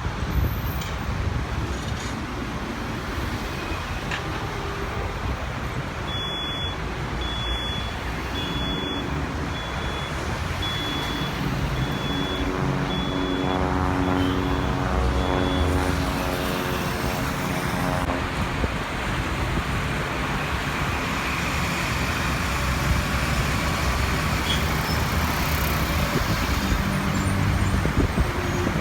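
Steady engine and traffic rumble, with a pitched engine drone swelling in the middle. A faint high beep repeats about once a second through the first half.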